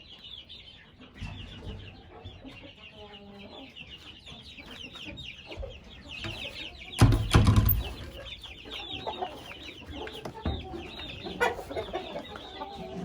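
Chickens clucking, over a constant rapid high chirping. About seven seconds in, a loud dull thump stands out above everything else.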